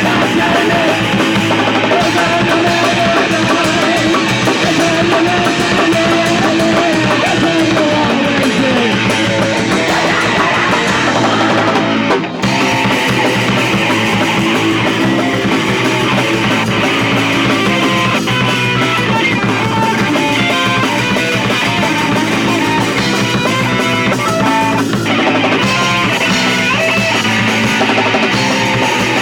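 Punk rock band playing live: guitar and drum kit, loud and steady, with a momentary break about twelve seconds in.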